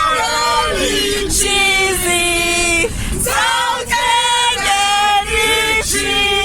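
A group singing, mostly women's voices, in phrases of long held notes.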